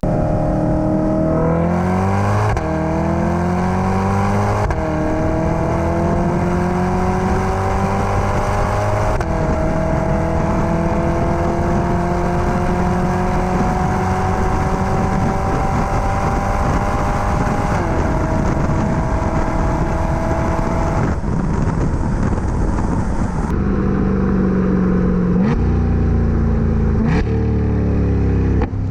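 2020 C8 Corvette's 6.2-litre LT2 V8 through a 3-inch stainless cat-back exhaust with an X-pipe, still on factory catalytic converters, pulling hard under wide open throttle. The note rises through the gears with three quick upshifts in the first ten seconds and then climbs slowly in a long pull. About twenty seconds in the throttle closes and it settles to a lower, steady note with two short rev blips near the end.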